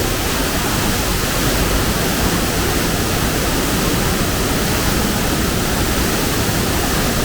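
Waterfall, its water rushing steadily and loudly.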